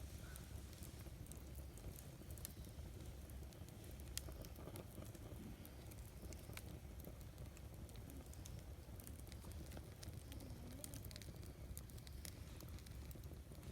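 Wood campfire burning, with faint, irregular crackles and pops over a low steady rumble.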